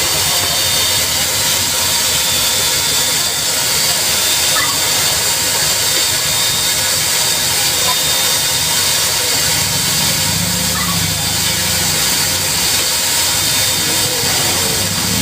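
Steam locomotive Ab608 standing at the platform, letting off a steady hiss of steam. A low rumble joins in from about ten seconds in.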